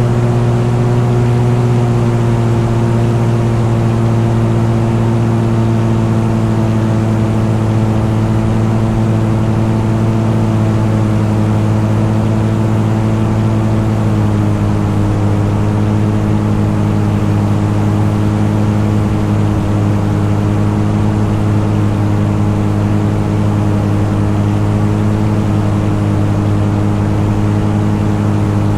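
Engine running steadily under load, a constant drone at unchanging revs that eases slightly lower in pitch about halfway through.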